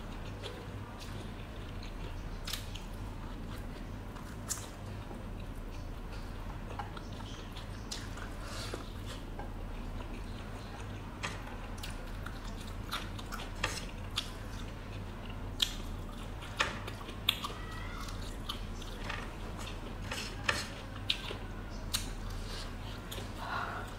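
Close-up mouth sounds of eating boiled pork by hand: chewing and biting, with short wet clicks and smacks scattered through and coming more often in the second half. A steady low hum runs underneath.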